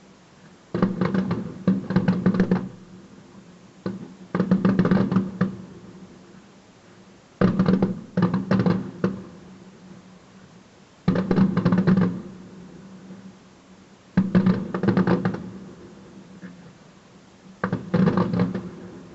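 Fireworks going off in salvos: six clusters of rapid bangs and crackles, each lasting a second or two, coming about every three to four seconds.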